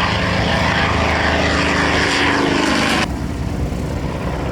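Propeller-driven piston-engine warbird flying past, its engine loud with a slight falling pitch. It cuts off suddenly about three seconds in, leaving a quieter steady noise.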